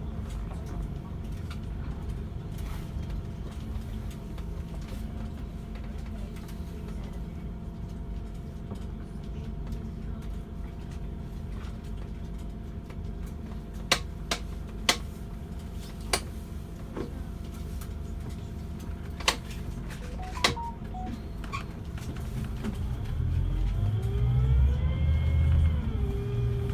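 Scania K360 coach engine, heard from inside the coach, idling steadily, with a few sharp clicks about halfway through. Near the end it revs up as the coach pulls away, the pitch rising, dropping briefly at a gear change, then rising again.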